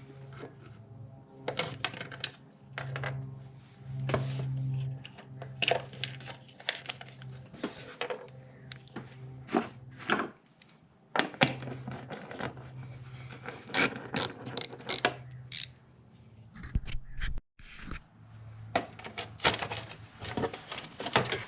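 Irregular clicks, clanks and scrapes of tools and hard parts being handled, over a steady low hum, with a quick run of sharp clicks about two-thirds of the way through.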